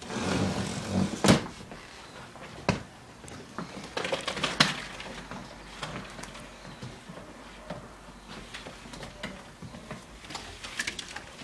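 Rustling and scattered knocks and sharp clacks as someone scrambles to catch a bird that has got into the house; the loudest clacks come about a second in and again near five seconds.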